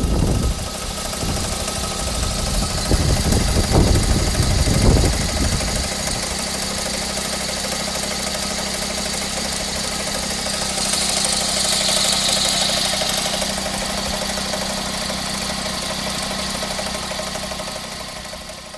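Suzuki Lapin SS's turbocharged K6A three-cylinder engine idling steadily, with the mystery knocking rattle (kotokoto) from the engine bay that is being traced. Low rumbles come and go in the first few seconds, and a hiss joins about eleven seconds in for a couple of seconds.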